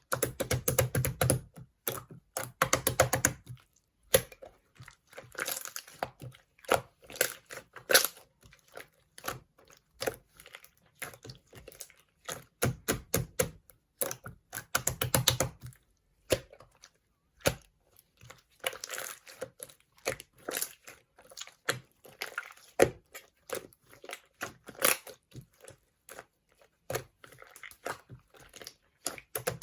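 Slime being squished and stretched by hand, giving off quick runs of sticky clicks and pops in clusters, with short pauses between.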